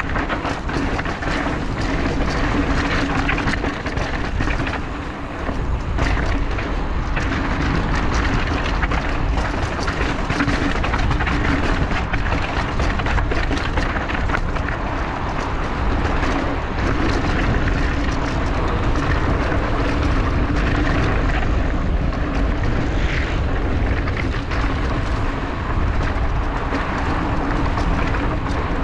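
Wind rushing over the camera microphone as a mountain bike rides a rocky dirt trail, with the tyres crunching and the bike rattling over rocks.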